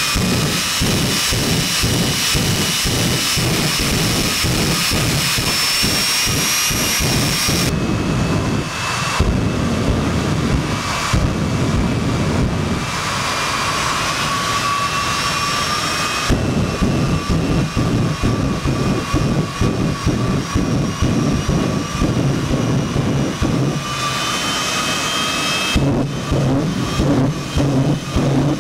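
Jet dragster's jet engine running loudly: a high, steady whine over a heavy rumble, the whine rising slightly in the first few seconds. The tone and loudness change abruptly several times.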